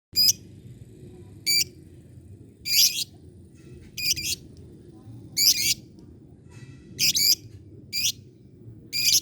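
A lovebird gives short, shrill, repeated calls, about one every second or so, eight in all, over a low steady background hum.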